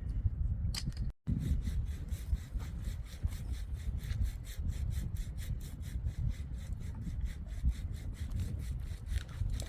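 Hand saw cutting wood in steady back-and-forth strokes, about three a second, over a low rumble; the sound drops out briefly about a second in.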